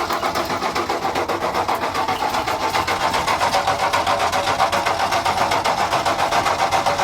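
1962 Ford F-350's engine running steadily with a fast, even pulse. It is running on gasoline poured into the carburetor, because the fuel pump is not yet drawing fuel from the tank.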